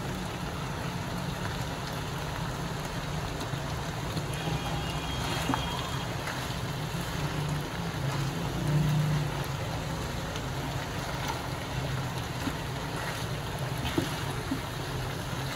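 Chicken and vegetables sizzling steadily as they stir-fry in a nonstick pan, turned now and then with a silicone spatula, over a steady low hum.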